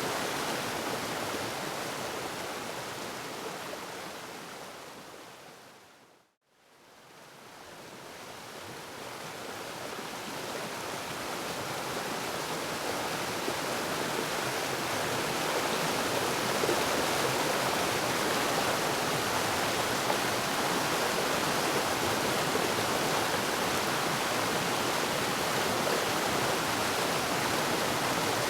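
Waterfall rushing, a steady roar of falling water that fades out to silence about six seconds in, then gradually swells back to full level.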